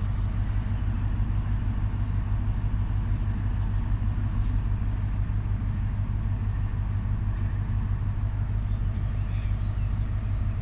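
Class 43 HST power car's diesel engine idling steadily as the train stands waiting to depart, a deep continuous hum. A few faint short high ticks sound over it.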